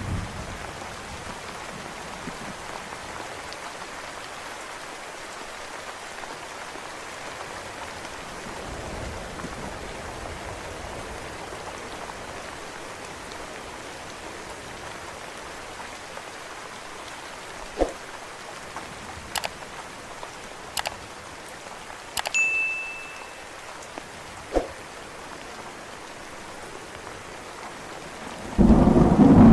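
Steady rain falling, with a few sharp ticks in the second half, one of them briefly ringing. A loud thunder rumble sets in near the end.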